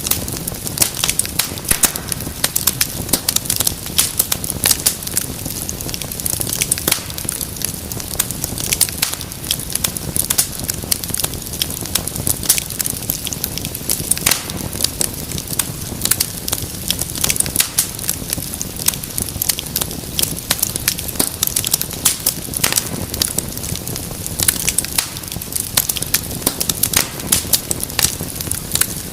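Wood fire crackling steadily, with dense, irregular sharp pops and snaps over a low, steady rush of burning.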